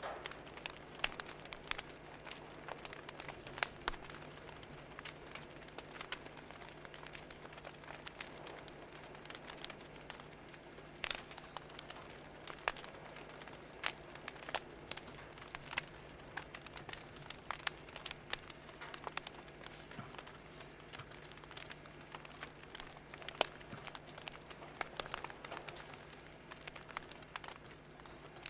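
Fire crackling: irregular sharp pops and snaps over a soft steady hiss, with a faint steady low hum underneath.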